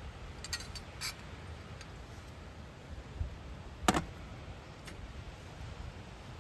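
A few short, sharp clicks and taps over a low steady rumble, the loudest about four seconds in.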